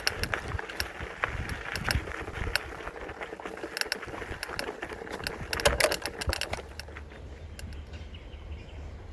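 Polygon Xtrada 5 mountain bike ridden over rough ground: chain and frame rattling with many sharp clicks over tyre noise. About seven seconds in the rattling dies away, leaving a quieter steady low rumble.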